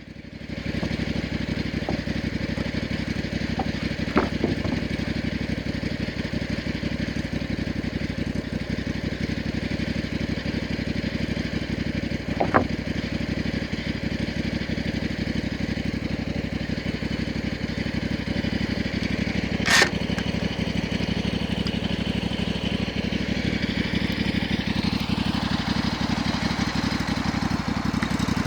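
Small engine of a homemade sawmill running steadily, with a few sharp knocks, the loudest about twenty seconds in. A rising whine comes in near the end.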